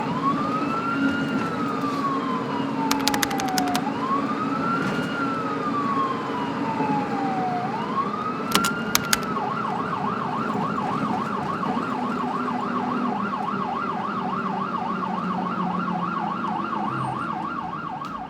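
Emergency vehicle siren in a slow wail, rising and falling about every four seconds, that switches about halfway through to a fast yelp of about four cycles a second. A few sharp clicks sound over the wail.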